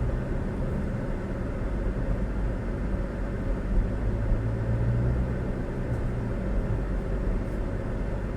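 Vehicle travelling on a highway: a steady low engine and road rumble with a constant hum.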